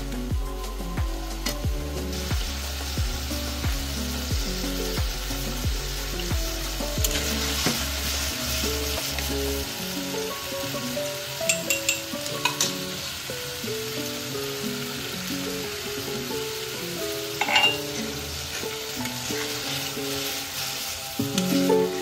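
Prawns in masala gravy sizzling in a metal kadai while a metal spatula stirs them, with a few sharp clinks of the spatula against the pan around the middle. Instrumental background music plays throughout; its deep bass drops out about ten seconds in.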